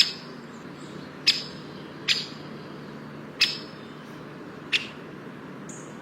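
A bird giving short, sharp calls about once a second, five in all, each falling quickly in pitch, over a steady low background.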